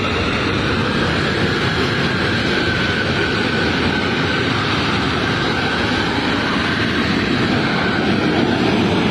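Jet engines of a Boeing C-17 Globemaster III, its Pratt & Whitney F117 turbofans, running at high power: a loud, steady rush with a faint whine held over it, growing a little louder near the end.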